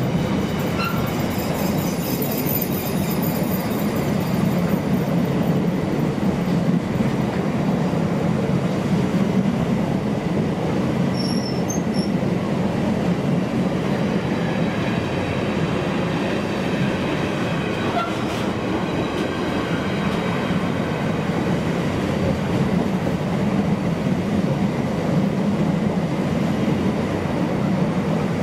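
Container freight train's wagons rolling past at close range: a steady rumble of steel wheels on the rails, with a faint high wheel squeal in the first few seconds.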